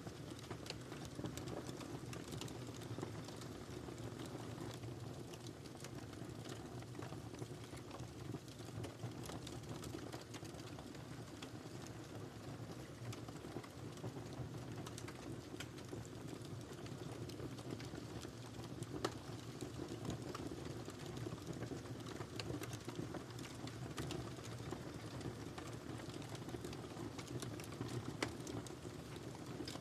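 Wood fire crackling in a fireplace: a steady low rumble of the flames with frequent small crackles and pops, a louder pop about 19 seconds in and another near the end.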